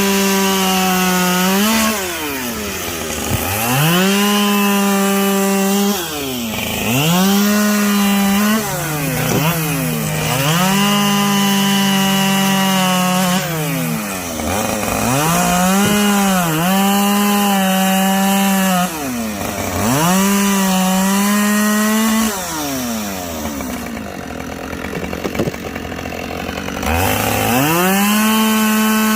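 Two-stroke chainsaw bucking logs: it revs up sharply, holds at full speed through a cut for a few seconds, then drops back to idle, about seven cuts in a row. In one longer cut, the engine speed sags as the chain works through the wood.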